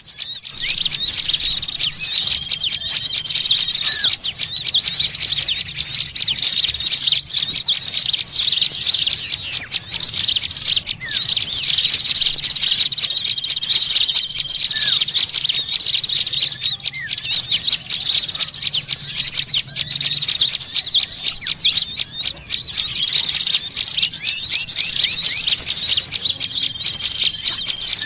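Dense, unbroken chatter of many small songbirds calling at once, rapid high chirps with a few short steady whistles among them. It is a bird-trapping lure (pikat) recording of noisy, agitated small birds.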